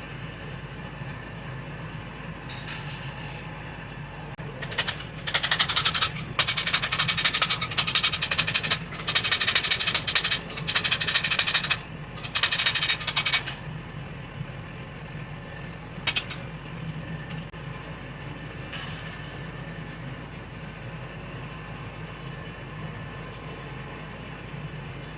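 Steel bar being cut: several loud, harsh bursts of cutting noise from about five to thirteen seconds in, over a steady low hum. A single short knock follows a few seconds later.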